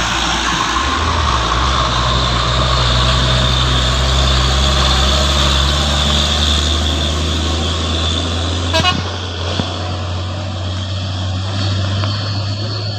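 Truck engine running steadily under a loud haze of road and wind noise, with a short rattle of clicks about nine seconds in.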